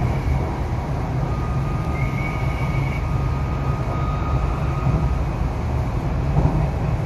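Inside an MTR R-Train, a Hyundai Rotem electric multiple unit, running at speed: a steady low rumble of wheels on track, with faint high whines that come and go.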